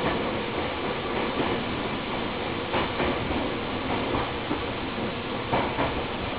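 Running noise heard inside a Nankai Kada Line electric commuter train's cabin: a steady rumble of the train moving along the track, with a few faint clicks.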